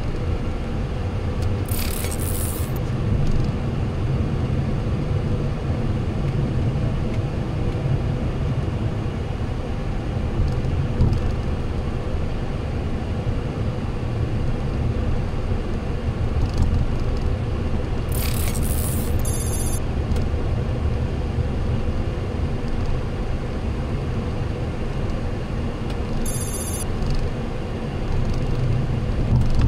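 Steady low rumble in the cockpit of a Boeing 737-800 rolling on the ground after landing, with its engines at idle. A few brief high-pitched trills and hisses cut in about two-thirds of the way through and again near the end.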